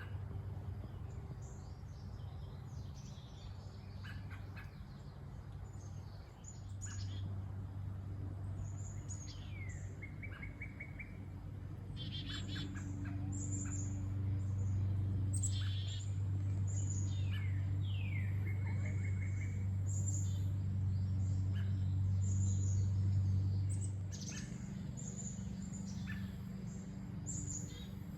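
Wild birds chirping and calling in the woods, among them a call that sweeps down into a short, fast trill, heard twice. Under them runs a steady low hum that grows louder through the middle and eases off near the end.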